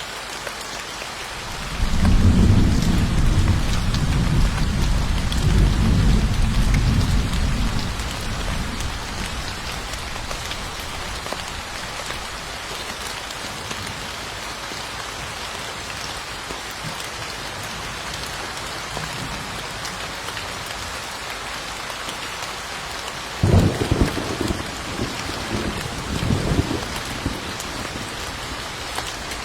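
Steady heavy rain with thunder: a long low rolling rumble starts about two seconds in and fades away over several seconds, and near the end a sharper thunderclap breaks out, followed by a few shorter rumbles.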